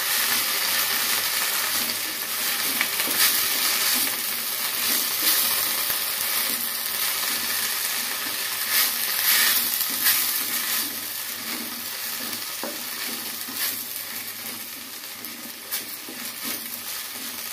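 Moringa leaves and sliced onions sizzling in hot oil in a black kadai, stirred and tossed with a wooden spatula in quick repeated strokes. The sizzle fades gradually through the stretch.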